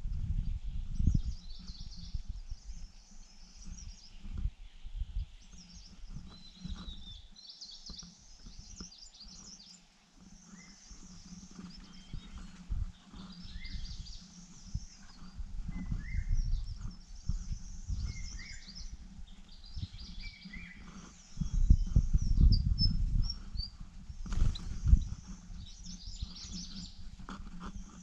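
Short high chirps and twitters of small birds scattered throughout, over irregular low thumps and rustles that are loudest about three quarters of the way through.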